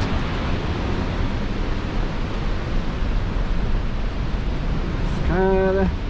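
Steady rushing noise of a river flowing beside a forest trail. A person's short voiced sound is heard about five seconds in.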